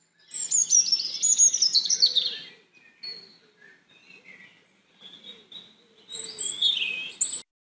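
Birdsong: a bird sings a quick run of high chirps falling in pitch, then a few scattered faint chirps, then a second burst of song about six seconds in that cuts off suddenly.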